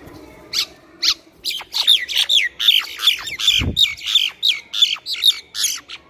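A bird calling close to the microphone: a fast run of loud, sharp notes, each falling steeply in pitch, about three to four a second. It starts about half a second in and stops just before the end. There is one low thump near the middle.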